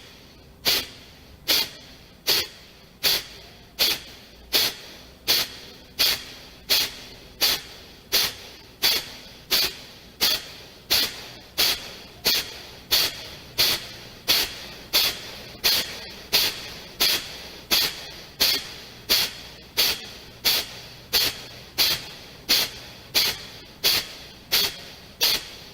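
Kapalbhati breathing: short, forceful exhalations snorted out through the nose by pulling the low belly in sharply, each a brief hiss followed by a quiet passive inhale. The puffs come at a steady pace of about four every three seconds.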